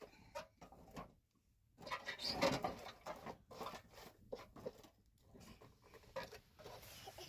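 Irregular knocks, clicks and rustling, as of things being handled and moved about, busiest from about two to three and a half seconds in.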